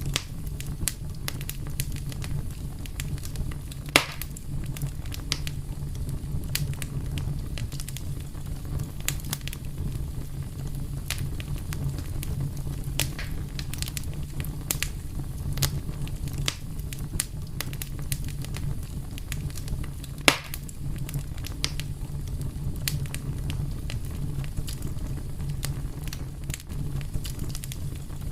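Wood fire burning with a steady low rumble and frequent sharp crackles, two louder pops standing out, one about four seconds in and one about twenty seconds in.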